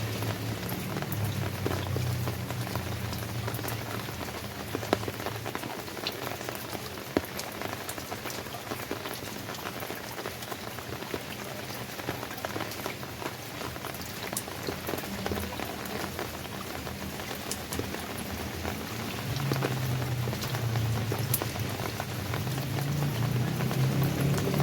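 Steady rain falling, an even hiss dotted with the sharp taps of single drops striking a surface. A low rumble underneath dies away within the first few seconds and returns, louder, about 19 seconds in.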